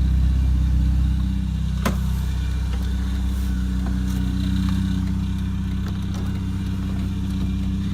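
2000 Chevy Cavalier's 2.2-litre four-cylinder engine idling steadily, with a single sharp click about two seconds in.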